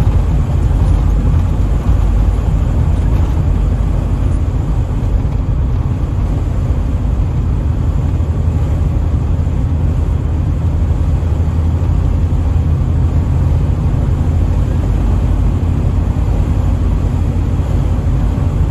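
Steady engine and road noise of a 1984 Pontiac Trans Am cruising at highway speed, heard from inside the cabin: a constant low rumble with no change in pitch.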